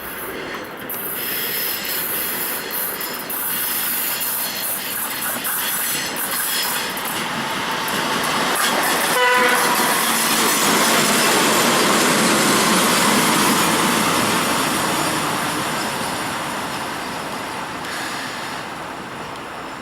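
ChME3 diesel shunting locomotive running light past: engine and wheel-on-rail noise builds to a peak about eleven seconds in and then fades. A brief horn toot sounds about nine seconds in, and there is a high hiss from the rails early on.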